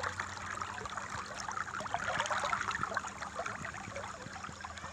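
River water flowing and babbling, a steady wash of small splashes.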